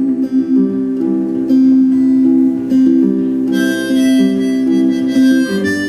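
Harmonica playing an instrumental break over acoustic guitar, in a slow folk song; the harmonica comes in stronger about halfway through.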